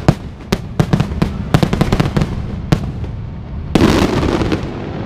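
Aerial fireworks going off in quick succession, a string of sharp bangs with a dense crackling burst about four seconds in.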